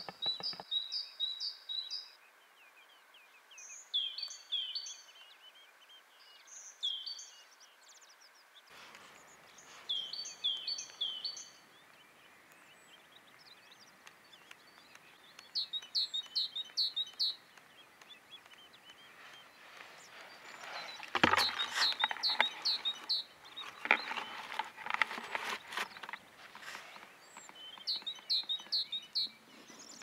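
A songbird singing short phrases of a few quick, high notes, repeated every few seconds over faint background noise. About two-thirds of the way through, a few seconds of louder crackling noise join in.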